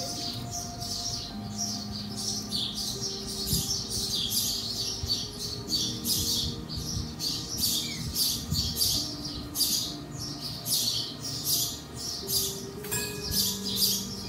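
Small bird chirping over and over, about two or three short high chirps a second without a break, over faint sustained tones that shift in pitch from time to time.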